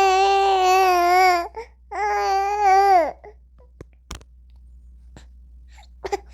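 Baby's voice: two long, wavering cries, the first lasting until about a second and a half in, the second from about two to three seconds in and falling in pitch at its end. Then quiet with a few faint clicks.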